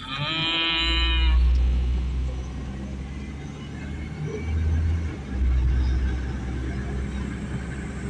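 A car's power steering pump groaning with a pitched whine for about a second and a half, over a steady low rumble of engine and road. The owner takes the pump to be bad.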